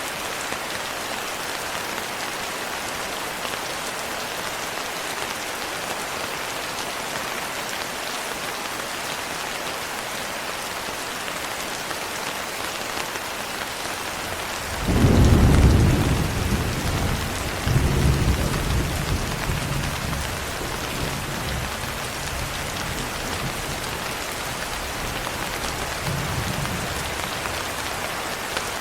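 Steady rain pattering on a window, with a roll of thunder that breaks in suddenly about halfway through, rumbles again a few seconds later and dies away slowly.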